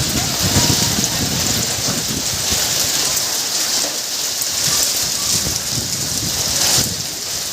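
Hailstorm: heavy rain and hailstones pelting down steadily.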